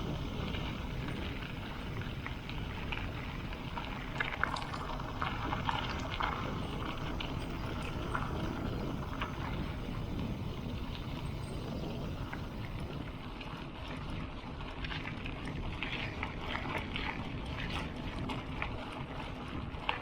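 Steady wind rush on the microphone and the rumble of knobby mountain-bike tyres rolling under a moving bicycle, with scattered small clicks and rattles.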